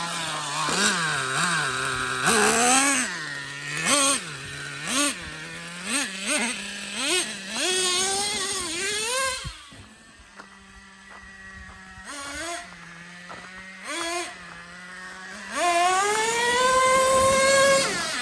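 Nitro two-stroke engine of a Traxxas Revo 3.3 RC truck, blipped over and over from idle, with the revs rising and falling about a dozen times in quick succession. Midway it drops back to a quieter idle with a couple of short blips. Near the end it climbs in one long rise to high revs.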